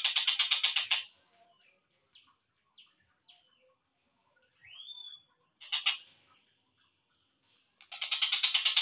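Slowed-down recording of a tengkek buto kingfisher calling: a loud, rapid rattling trill that stops after about a second, then a few short chirps and one rising note. A brief loud burst comes at about six seconds, and the rattling trill starts again near the end.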